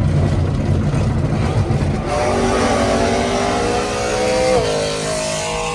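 A car engine: a low rumble for about two seconds, then the revs climb steadily for a couple of seconds and drop sharply, then hold steady.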